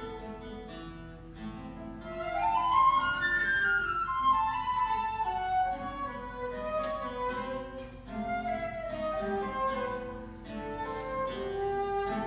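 Flute and guitar duo playing a classical piece: the flute melody climbs to a high note about three seconds in, then winds back down over plucked guitar notes.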